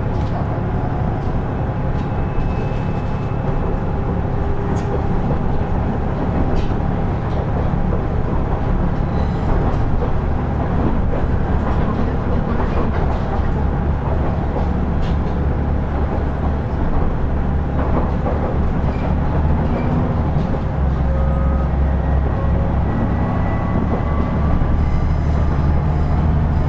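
KiHa 112 diesel railcar (KiHa 110 series) heard from inside while running: a steady diesel engine hum under the floor, mixed with wheel-on-rail noise and scattered faint clicks.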